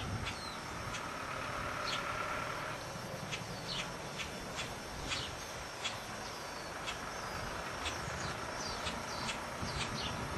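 Small birds chirping, many short high calls, some falling in pitch, repeated throughout over a steady low background rumble.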